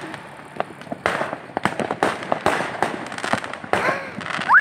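Fireworks going off: a dense run of sharp cracks and bangs, with a whistle rising in pitch near the end.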